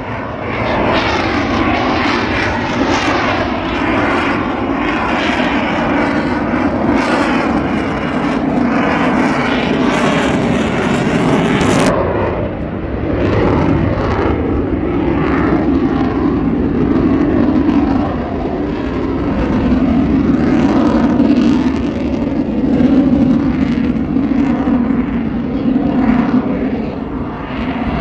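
Airshow aircraft flying past overhead, a loud, continuous engine roar whose pitch sweeps up and down as the planes pass. About halfway through, the highest hiss drops away suddenly.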